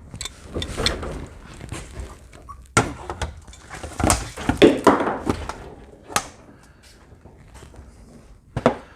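Irregular knocks, thunks and clanks as a work panel is folded down and laid flat, with a sharp hit about three seconds in and a cluster of louder knocks a second or two later.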